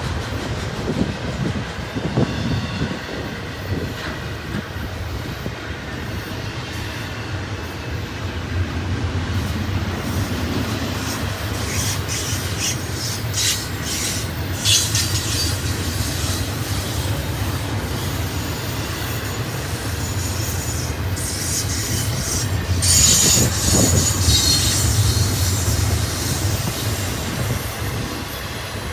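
Double-stack intermodal freight train's container well cars rolling past: a steady rumble of wheels on rail with clacking. High metallic wheel squeal comes through in the middle and again, loudest, about four-fifths of the way in.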